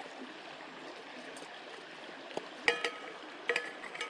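Stream running steadily, then two sharp clanks that ring on briefly about two and a half and three and a half seconds in, as camp gear is being packed away.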